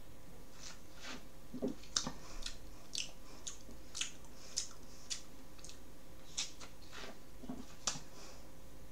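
Quiet mouth sounds of someone swallowing and tasting a swig of soda: scattered small clicks and smacks of lips and tongue, with a few soft swallows.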